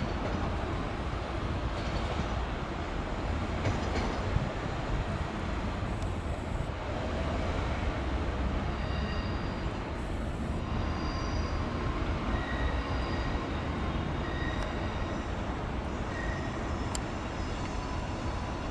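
Trenitalia Jazz regional electric train rolling slowly over the station tracks: a steady low rumble with short high-pitched wheel squeals that come and go through the curves and pointwork.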